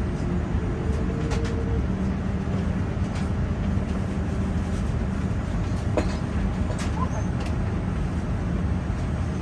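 Steady low rumble and hum inside a Boeing 787-9 cabin on the ground just after arrival, with a few light clicks.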